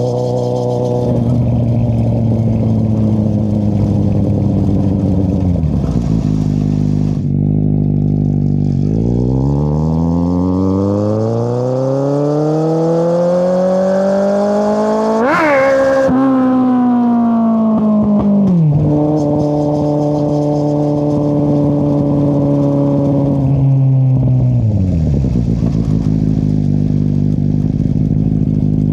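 2013 Kawasaki Z800's inline-four running through an Akrapovic exhaust with the dB killer removed. The engine winds down off the throttle, then pulls one long rising acceleration of about six seconds that peaks and drops sharply, holds a steady cruise, and winds down again near the end.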